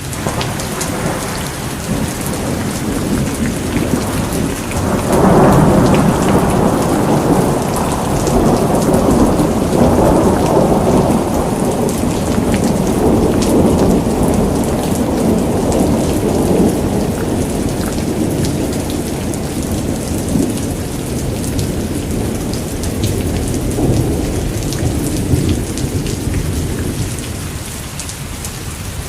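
Steady rain with fine drop patter, under a long roll of thunder that swells about five seconds in and fades slowly over the next ten seconds or so, with a weaker rumble near the end.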